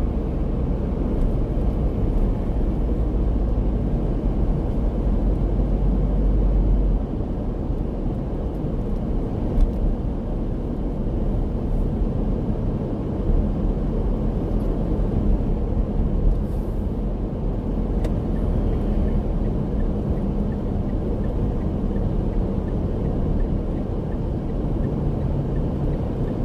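Steady road and engine rumble heard inside a moving car's cabin; the deepest rumble drops a little about seven seconds in, with a few faint ticks.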